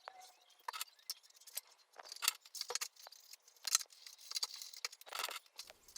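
Felt-tip pens drawing on a plastic milk bottle: short, irregular scratchy strokes and small clicks as the pen and bottle are handled.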